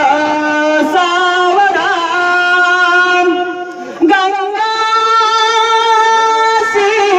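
A single voice singing Marathi mangalashtak wedding verses in long held melodic notes, with short breaths about a second in and again about four seconds in.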